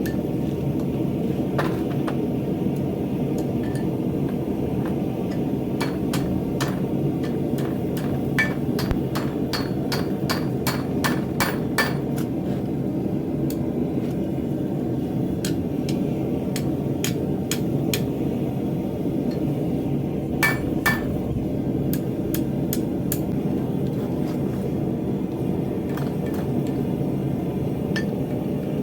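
Hammer striking steel: a run of quick, light blows about two to three a second, then scattered single strikes and a louder pair later on, over a steady low rumble.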